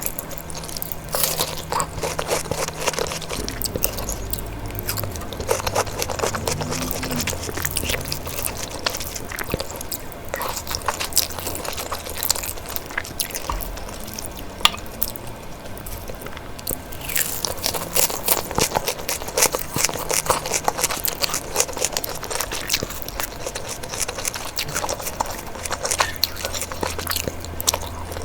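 Close-miked eating sounds: a person chewing and biting food, with many small crisp clicks and crunches coming irregularly throughout.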